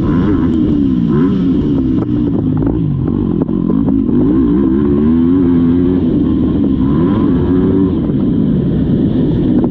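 Motocross dirt bike engine racing on the track, revving up and dropping back again and again, its pitch climbing and falling about every second or so.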